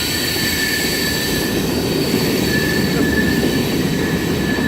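Railroad cars of a passing train rolling by on the rails with a steady rumble, and a thin, steady high-pitched wheel squeal over it.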